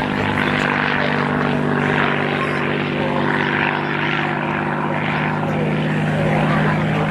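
Supermarine Spitfire PR Mk XI's Rolls-Royce Merlin V12 engine and propeller in flight, a steady drone at an even pitch and level.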